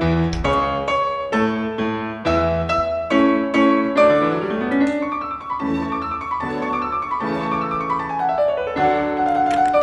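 Background piano music: struck chords and flowing runs of notes.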